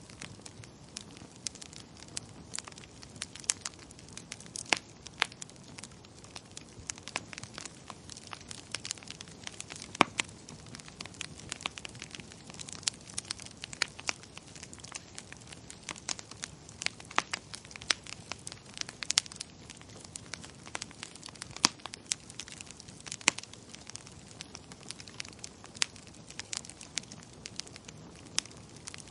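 Wood fire crackling in a fireplace: a steady low hiss with dense, irregular pops and snaps, a few sharper ones standing out.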